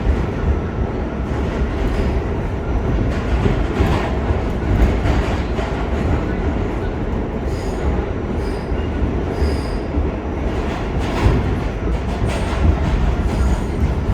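R46 subway car running through the tunnel: a steady heavy rumble of wheels on rail with clickety-clack from the track. A few brief high squeals from the wheels come in the middle and again near the end.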